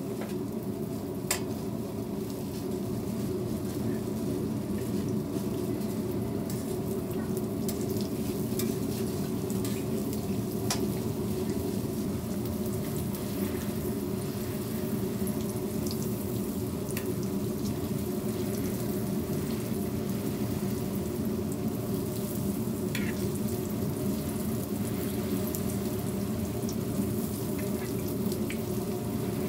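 Hotteok, Korean sweet filled pancakes, frying in shallow oil on a flat griddle: a steady sizzle over a steady low hum. A few sharp clicks come from metal tongs and a dough press against the griddle.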